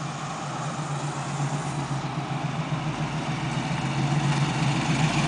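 1979 Chevrolet Camaro Z28's V8 engine running at a low, steady note as the car approaches slowly, growing steadily louder.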